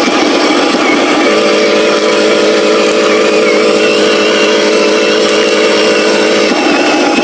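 RC Scania logging truck driving, its drivetrain running with a rough rattle at first, then a steady whine from about a second in that drops away near the end.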